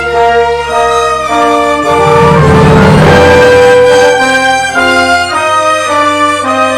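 Orchestra playing a Christmas carol arrangement, strings and brass sounding sustained chords. The music swells to its loudest about three seconds in.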